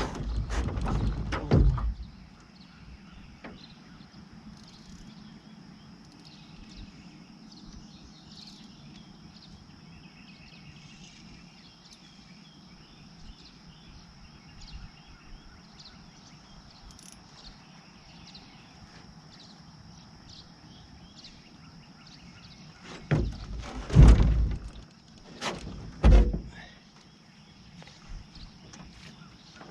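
Quiet outdoor ambience with a steady high-pitched drone, broken by loud low thumps and rustling in the first two seconds and again twice toward the end, typical of the camera or boat being handled.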